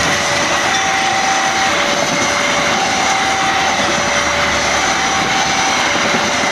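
Passenger coaches of a train rolling past with steady wheel-on-rail noise. A level-crossing warning alarm sounds over it: two tones, low and high, alternating about once a second.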